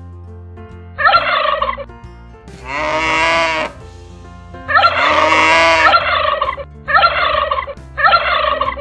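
Turkey gobbling sound effects: five calls of about a second each, over a soft, steady music bed.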